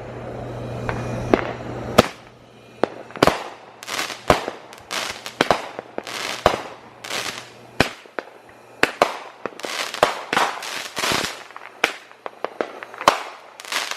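A consumer multi-shot firework cake firing a rapid string of shots. From about two seconds in there are sharp launch thumps and bursting reports, several a second, with short crackling spells between them.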